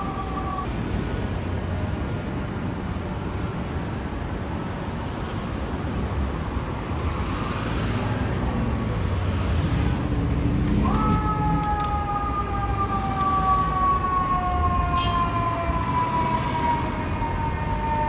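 Fire truck siren sliding down in pitch and cutting out just after the start, then the apparatus's engine and road noise. About 11 seconds in the siren comes back in sharply and slowly falls in pitch.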